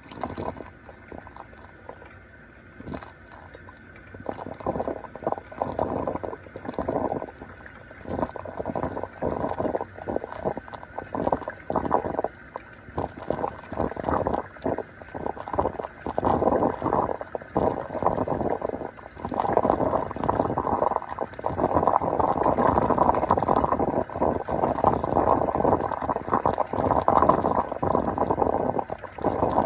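Aarke drip coffee machine brewing: water gurgling and sputtering up through the heater in irregular surges that grow louder and more continuous.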